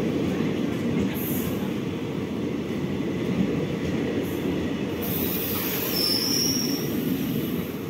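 Coaches of an Indian Railways express train rolling past close by: a steady rumble of steel wheels on the rails. A brief high-pitched wheel squeal comes about six seconds in, as the rear luggage coach goes by.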